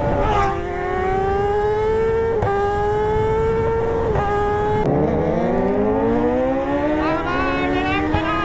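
A high-performance engine accelerating hard, its pitch climbing and breaking briefly at each gear change, about five shifts in all.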